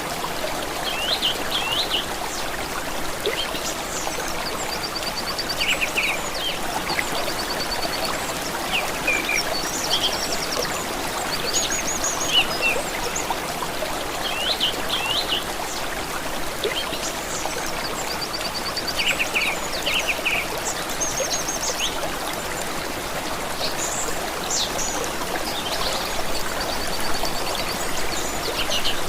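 Running stream trickling steadily, with songbirds calling and trilling on and off over it.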